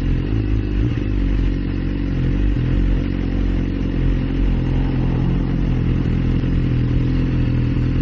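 Motorcycle engine running at a steady, even speed while riding, with road noise.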